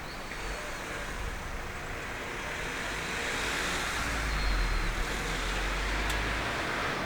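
A car passing on a nearby road: tyre and engine noise swells to its loudest around the middle, then eases off.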